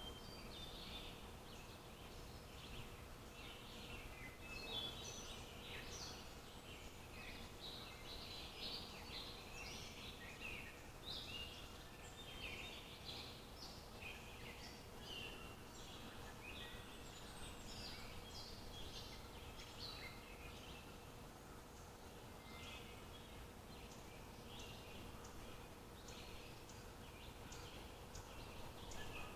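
Many small birds chirping and trilling over one another in a steady chorus of short high calls, over a faint background hiss.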